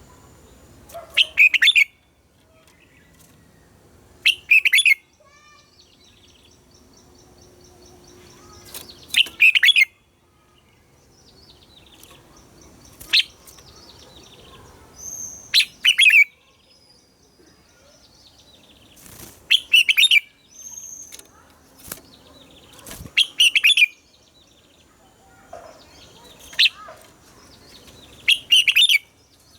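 Red-whiskered bulbul singing loud, short phrases a few seconds apart, about nine in all, with fainter chirps in between.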